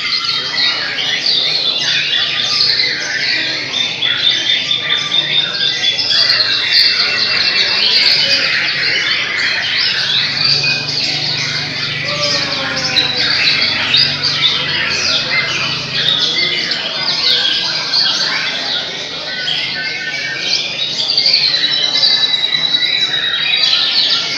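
Many caged songbirds singing at once, white-rumped shamas (murai) among them: a dense, unbroken chorus of whistles, trills and squawks, with a faint low hum beneath.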